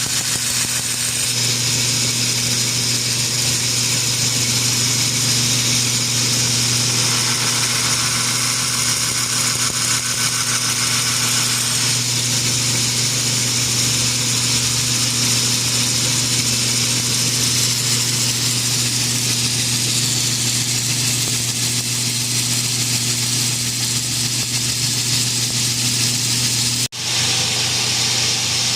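Steady workshop machine running without a break: a constant low hum under a wide hiss, cut off for an instant about 27 seconds in.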